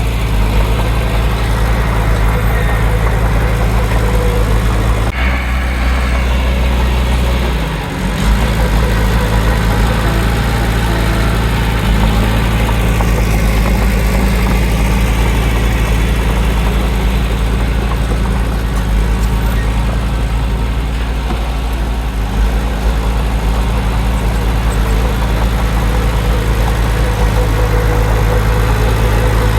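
Heavy diesel engine of earthmoving machinery running steadily at a low, even hum. Its note changes suddenly about five seconds in and dips briefly near eight seconds before settling back.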